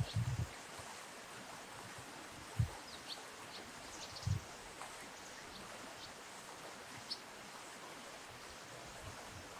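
Steady rush of flowing river water with short, high bird chirps scattered every second or two, and a few brief low thumps, the loudest a little over two and a half seconds in.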